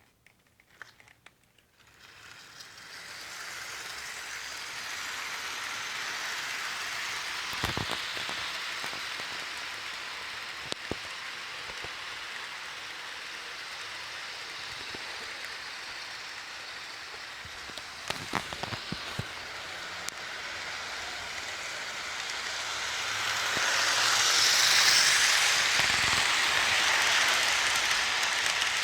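HO scale model train with a long string of cars running on the track: a steady rattling rush of wheels and motor that starts about two seconds in, with scattered sharp clicks, and grows louder near the end.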